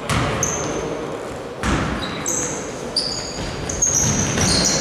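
A basketball bouncing hard on a gym floor, with two strong thuds near the start and about a second and a half in. From about two seconds in, many short, high sneaker squeaks come off the court.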